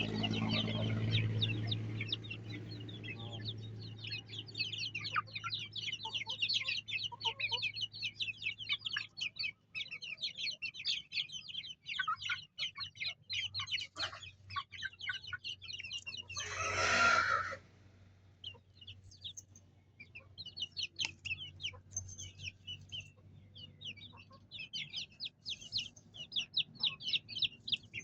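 Chickens calling: a crowd of young chicks peeping rapidly and high-pitched throughout, with clucking. One loud squawk about a second long comes roughly two-thirds of the way through.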